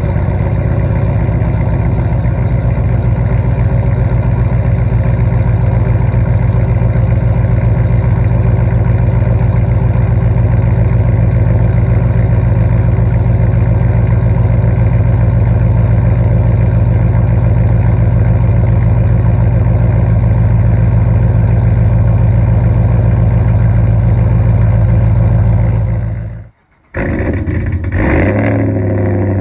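Straight-piped Ram 1500 V8 with long-tube headers and a 3-inch Y-pipe, running loud and steady at idle. Near the end the sound drops out for about half a second, then the engine is heard again, briefly rising in pitch.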